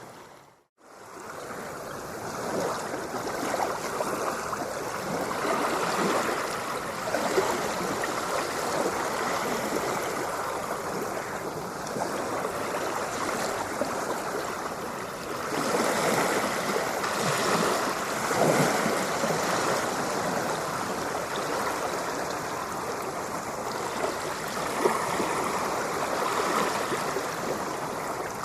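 Ocean waves washing in a continuous rush with gentle swells. The sound dips out briefly just after the start and fades straight back in, like a loop point in the recording.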